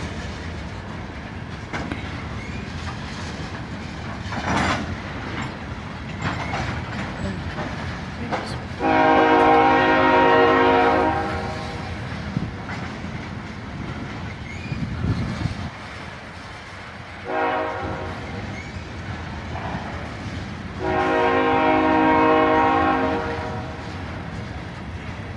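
BNSF freight train of tank cars rolling slowly past with a steady rumble and wheel clatter. A locomotive horn sounds three times: a long blast about nine seconds in, a short blast, then another long blast.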